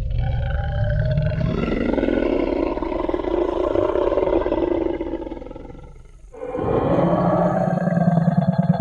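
Designed Tyrannosaurus rex roar sound effect: one roar of about six seconds that fades away, then a second roar starts just before the end.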